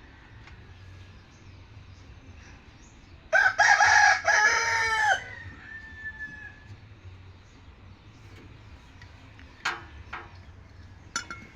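A rooster crowing once, about three seconds in, for roughly two seconds. Later, a couple of short sharp clicks.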